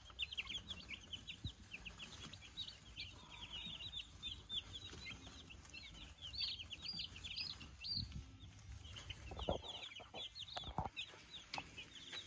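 A brood of meat-bird chicks peeping constantly, many short high peeps overlapping. A few low knocks sound about two-thirds of the way through.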